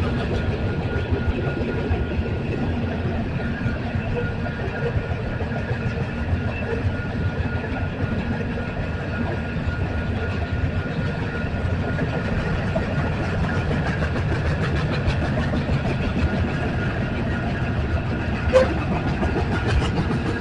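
Union Pacific train rolling past: a steady rumble of wheels on rails with rapid clicking, and one sharp knock near the end.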